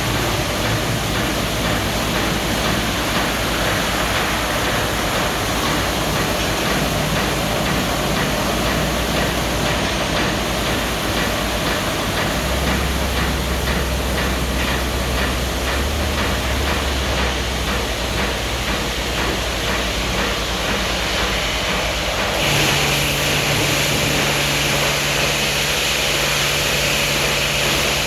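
Ceccato car wash tunnel machinery running as one steady, loud, noisy rush with a low hum underneath. About three-quarters of the way through it changes to a steadier motor hum with a high whine.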